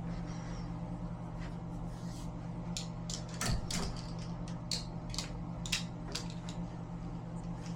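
Steady low hum of a running engine, with a run of sharp clicks and knocks in the middle.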